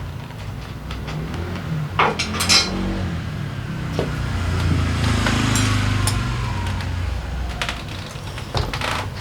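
Metal tools and engine parts clinking and knocking as a scooter engine is taken apart, with two louder metal clanks about two seconds in. Under them runs a low steady rumble.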